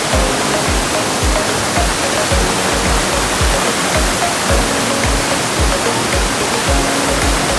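Steady rush of the Tinuy-An waterfall, with background music carrying a steady low beat laid over it.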